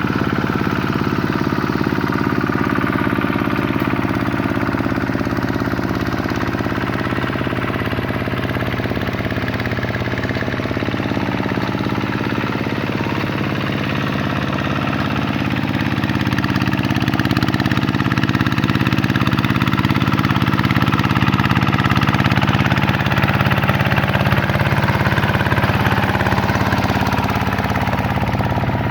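Vikyno RV125-2 two-wheel tractor's single-cylinder diesel engine running steadily, a little louder past the middle.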